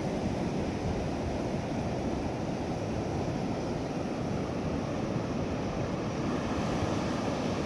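Ocean surf on a beach with wind buffeting the microphone: a steady rushing noise.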